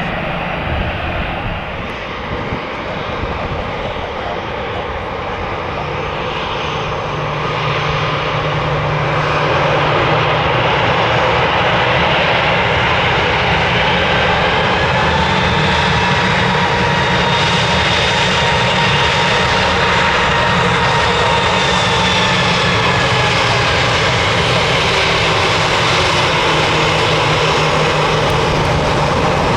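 Twin-engine jet airliner's engines running loud and steady, growing louder over the first ten seconds and then holding, with a thin whine that rises and falls slightly in pitch through the middle.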